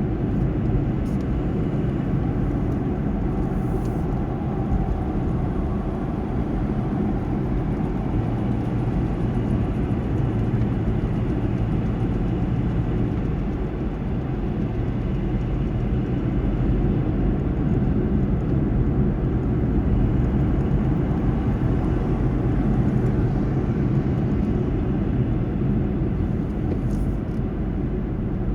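Steady low rumble of a car driving along a highway: tyre and engine noise, even throughout.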